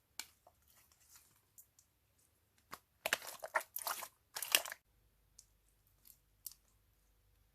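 Crunching and crinkling as slime-making materials are handled: scattered small crackles, then a louder run of crackly crunching for about two seconds in the middle, ending in a few light ticks.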